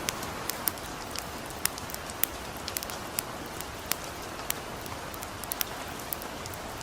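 Gentle rain falling steadily, mixed with a campfire crackling: irregular sharp pops and clicks, a few every second, over the even hiss of the rain.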